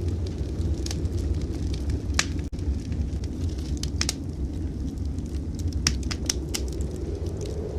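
Wood fire in a fireplace crackling, with scattered sharp pops, over a steady low rumble.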